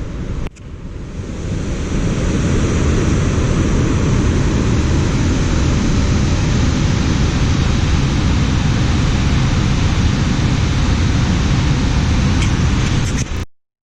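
Steady rushing roar of a waterfall, loud and even, with a heavy low rumble. It builds up over the first second or two and cuts off abruptly near the end.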